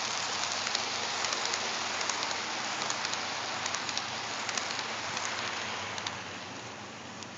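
HO scale model train led by an Atlas Dash 8-40CW diesel locomotive running along the track: a steady crackling rush of wheels and motor with many small clicks, easing off a little about six seconds in.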